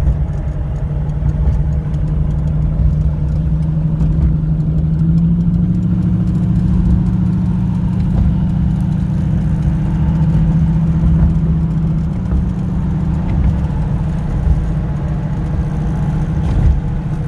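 Chevrolet 400 small-block V8 hot rod running through headers and stainless dual exhaust, a steady low note that rises a little about five seconds in and drops back about twelve seconds in.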